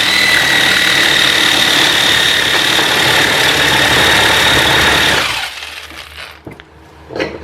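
Saber saw with a metal-cutting blade running at steady speed while cutting metal, with a steady high whine over a buzzing rattle. It stops a little past halfway through and winds down, followed by a couple of light clicks.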